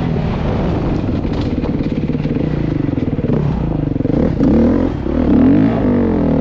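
Beta dirt bike engine running close by, revving up and down, with a lower, chugging stretch in the middle.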